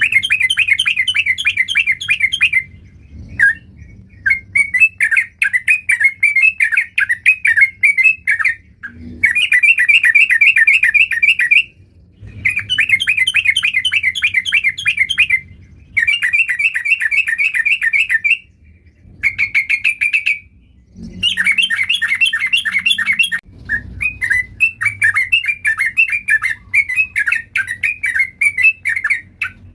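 Yellow-vented bulbul (trucuk) singing loudly in long runs of rapid, chattering notes, phrase after phrase with short pauses between them.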